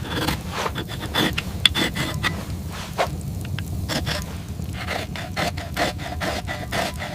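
Rough scraping and rubbing strokes, many in quick irregular succession, over a steady low rumble.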